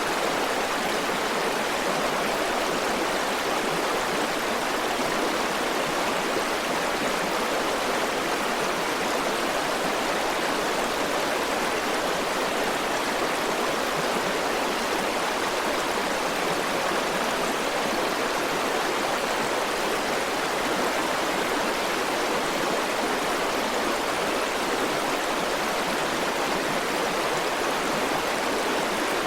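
River water rushing and flowing steadily, an even rush of running water with no breaks or changes.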